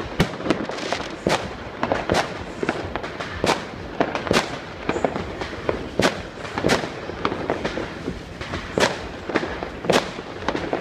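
Fireworks and firecrackers going off all around: sharp bangs at irregular intervals, sometimes several a second, over a continuous crackle of more distant ones.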